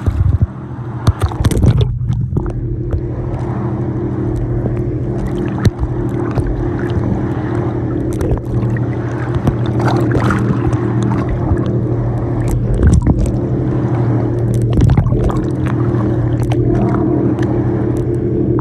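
Boat engine running steadily with a constant low drone, with water splashing and knocks close to the microphone.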